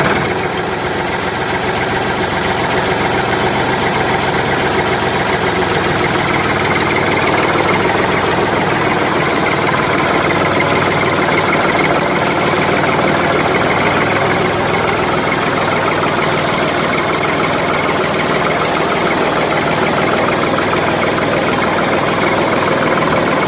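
Miniature diesel engine running steadily at an even idle with a rapid, constant beat.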